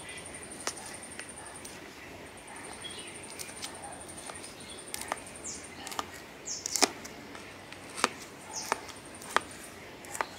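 Birds chirping, with a fast high-pitched trill that starts and stops in long stretches, and a scatter of sharp clicks and ticks, strongest in the second half.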